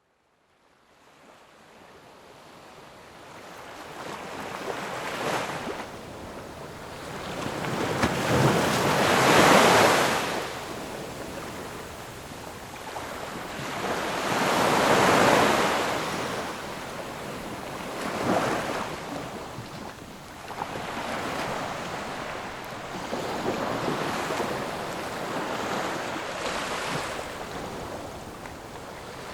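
Ocean waves breaking and washing in, swelling and ebbing in broad surges every few seconds. The sound fades in over the first few seconds.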